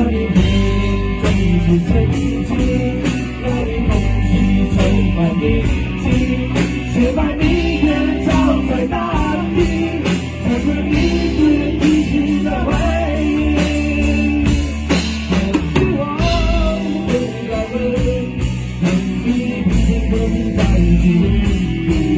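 Rock band playing a ballad: drum kit keeping a steady beat under bass and two guitars, with a melodic line running over the top.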